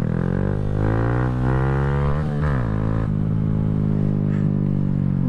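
2020 Honda Grom's 125 cc single-cylinder four-stroke engine accelerating under the rider: its pitch rises steadily, drops back sharply about two seconds in and again about three seconds in like gear changes, then climbs slowly again.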